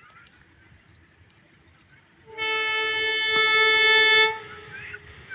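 A train's horn sounds one long blast of about two seconds, getting a little louder before it cuts off. Birds chirp faintly before and after it.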